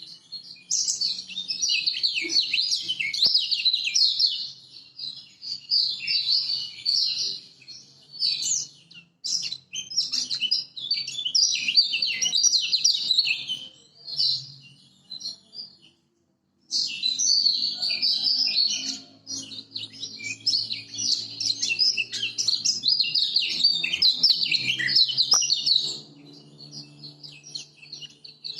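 Kecial kuning (Lombok white-eye) singing a rapid, high, chattering warble in long unbroken phrases. It breaks off briefly about halfway through, then resumes, and gives way to a few scattered calls near the end.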